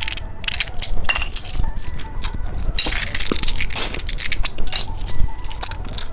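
Small plastic novelty candy and its packaging being handled: a dense run of crackling and clicking.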